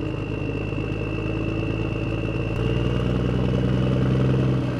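A small motor-driven machine running steadily with a high whine, its low hum growing stronger about halfway through and easing off near the end.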